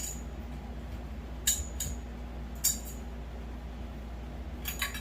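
Metal grow-tent frame poles clinking as they are handled and fitted together: a few sharp separate clinks, with a quick cluster near the end.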